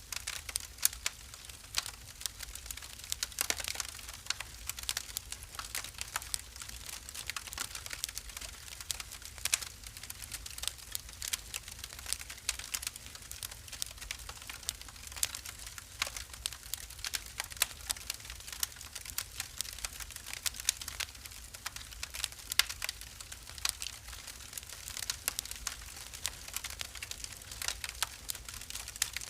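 Wood fire burning in a fireplace, crackling with many small, irregular pops and snaps over a faint hiss and low rumble of the flames.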